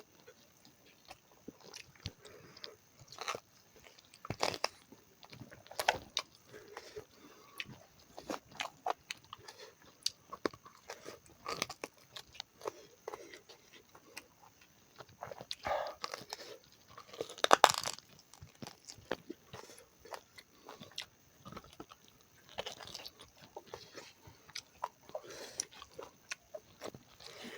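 A person chewing and biting a pork leg dish close to the microphone, with irregular wet clicks and crunches. A louder crunch comes about two-thirds of the way through.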